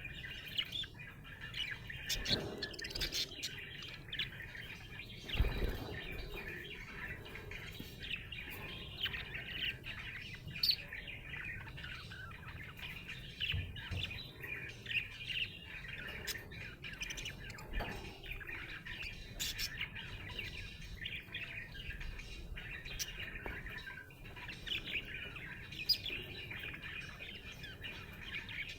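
Budgerigar chirping and warbling continuously in quick, busy chatter, the happy sound of a contented budgie. A few soft low thumps, the loudest about five seconds in.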